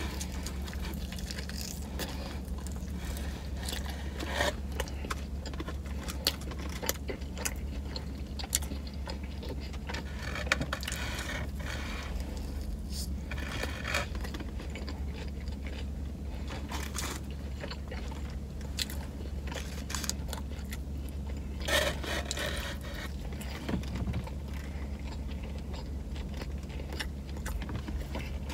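Chewing and biting into a chicken teriyaki sub with lettuce, with short crunches and clicks throughout, over a steady low hum.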